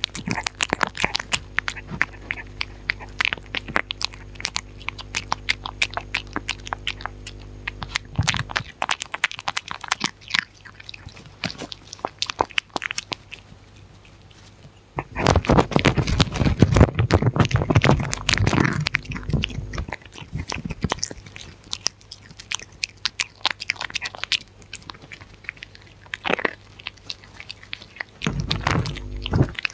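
Dog eating close to the microphone: quick chewing and biting clicks throughout, densest and loudest for a few seconds in the middle and again near the end. A low steady hum runs underneath for the first third and then stops.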